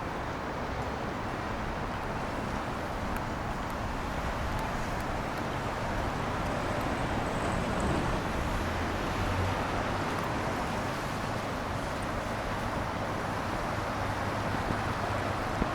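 Urban road traffic on wet streets: a steady wash of car engine and tyre noise that swells gently about halfway through as vehicles pass.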